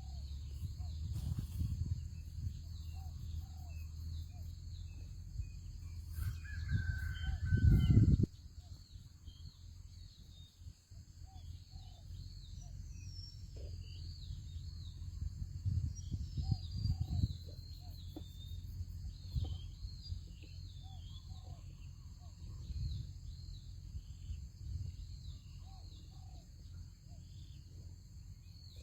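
Outdoor rural ambience: wind rumbling on the microphone, small birds chirping, a steady high insect drone, and scattered faint low calls. A loud rustling burst comes about eight seconds in, after which the wind rumble is lower.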